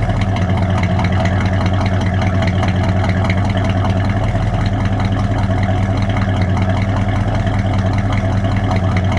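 1969 AMC Ambassador SST's 343 cubic-inch four-barrel V8 idling steadily, heard at the tailpipe of its dual exhaust.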